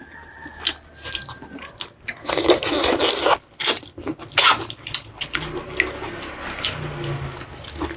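Close-miked eating of salmon sinigang: wet slurps of the hot sour broth and chewing, with short clicks and scrapes of a spoon against the bowl.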